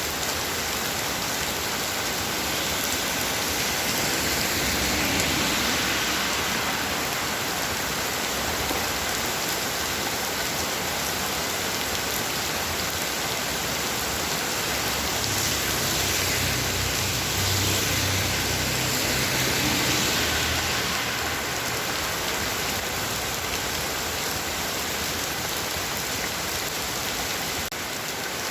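Heavy rain pouring steadily, swelling a little louder twice: around five seconds in and again from about fifteen to twenty seconds in.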